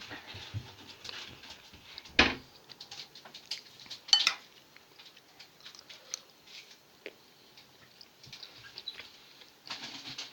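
Small household handling noises: scattered light clicks and rustles, with a sharp knock about two seconds in and a louder clink about four seconds in.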